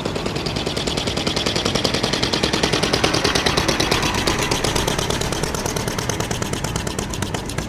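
An old vehicle engine's exhaust popping in rapid, even beats, about ten a second. It grows louder to a peak about three seconds in, then eases off as it passes.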